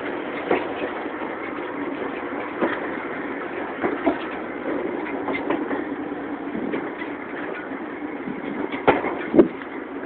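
Excursion train rolling along the track, heard from aboard: a steady rumble of wheels on rail with irregular clanks and knocks, two sharper ones close together near the end.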